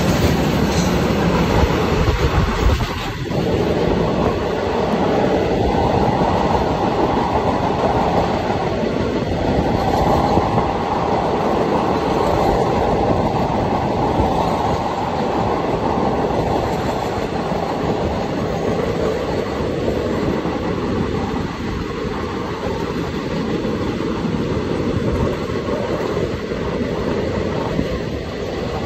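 Indian Railways passenger train running at speed, heard from an open coach doorway: a loud, steady rumble of wheels on the rails, with a goods train running alongside on the next track.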